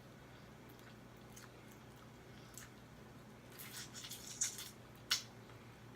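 Close-up eating sounds: wet chewing and mouth clicks, with a cluster of sharp smacks about three and a half seconds in and one sharp click about five seconds in.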